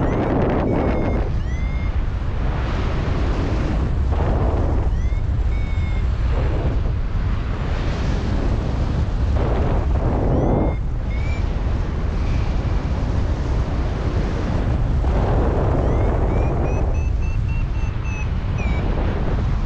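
Strong wind buffeting the microphone of a paragliding pilot in flight: a heavy low rumble with louder gusts. Short high beeps from a variometer cut through it now and then and turn into a quick, evenly spaced run near the end, the tone a vario gives when the wing is climbing in lift.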